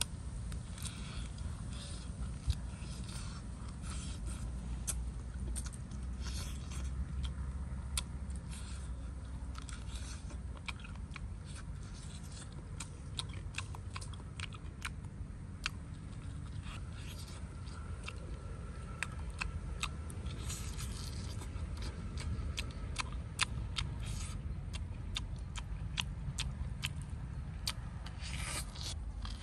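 A man eating roasted pig leg meat close to the microphone: chewing and biting, with frequent short sharp mouth clicks and smacks throughout.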